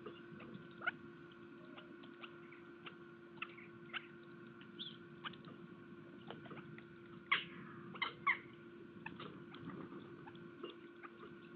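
Birds feeding at a garden bird feeder: scattered light pecking taps, with three louder short sounds close together about seven to eight seconds in, over a steady hum.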